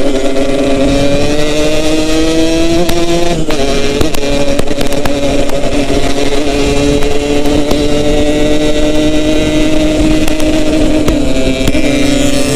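Yamaha RX-King's 135cc two-stroke single-cylinder engine running under way, its pitch climbing for the first three seconds, then dropping suddenly as it shifts up a gear, then holding a steady pull with slowly falling pitch.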